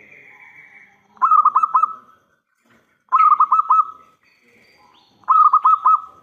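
Zebra dove (perkutut) cooing: three short phrases of quick, stuttering notes, about two seconds apart.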